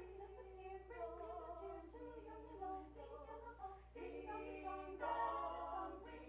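Group of voices singing a cappella, a Christmas song played as dinner music, with a steady low electrical hum beneath.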